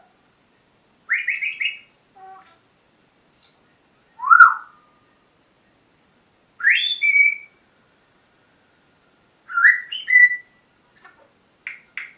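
Pet parrot whistling and chirping in a series of short, separate calls, several of them rising whistles, the loudest about four seconds in.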